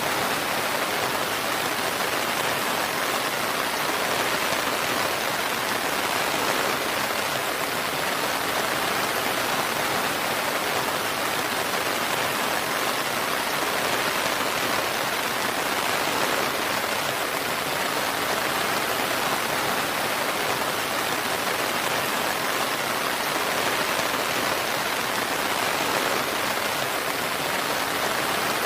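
Steady, even rain falling without let-up.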